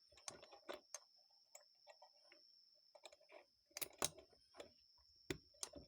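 Faint, scattered clicks and light knocks of small carburetor parts being handled and tried in place, in irregular bunches with the sharpest pair about four seconds in. A faint steady high-pitched whine runs underneath.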